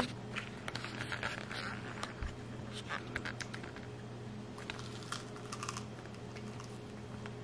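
A person biting into and chewing a baked sausage crescent cheese ball, heard as faint, irregular clusters of small clicky mouth and crunching sounds over a steady low hum.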